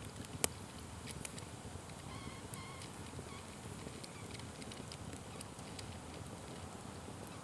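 Wood fire burning with a steady low rumble and scattered sharp crackles and pops, the loudest pop about half a second in.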